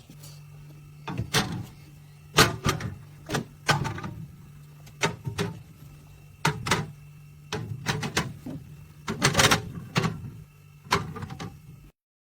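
Irregular knocks, clicks and clatter of objects being handled, over a steady low hum; the sound cuts off suddenly near the end.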